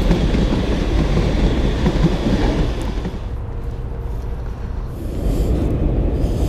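Metro trains passing on the tracks, a steady low rumble that eases off for a while about three seconds in.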